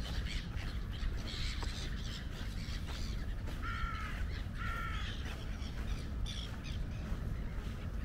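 Birds calling by the lakeshore, with two harsh pitched calls close together about halfway through and fainter higher calls around them, over a steady low rumble.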